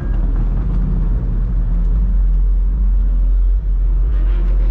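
Car engines running with a heavy low rumble, with a short rise in revs near the end.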